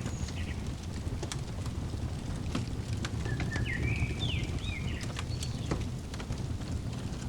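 Fireplace crackling: scattered sharp pops over a steady low rumble. A small bird chirps a short run of quick notes about halfway through.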